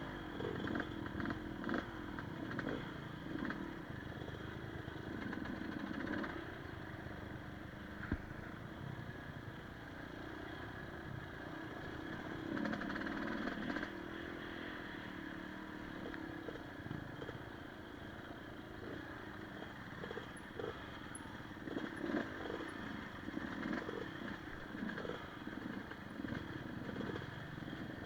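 Enduro motorcycle engine running as the bike is ridden along a trail, its pitch shifting now and then, with scattered knocks and rattles from the bike over rough ground.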